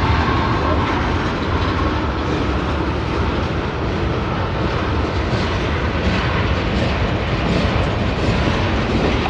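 Freight train tank cars rolling past: the steady noise of steel wheels running on the rails.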